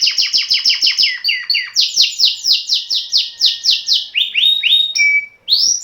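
A canary singing a long rolling song: a fast train of repeated notes that sweep downward in pitch. It switches to a slower run of sweeps about two seconds in, then to lower notes and a short steady whistle near the end.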